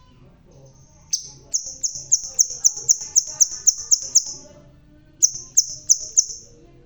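A sepah raja sunbird sings a fast string of high, sharp, chipping notes, about four a second. After a rising note it gives a long run, then a shorter one.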